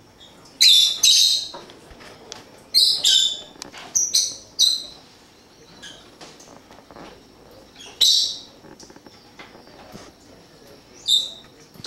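Pet birds calling with short, loud, high-pitched chirps in bursts: two about half a second in, a run of five or so between about three and five seconds, then single calls around eight seconds and near the end.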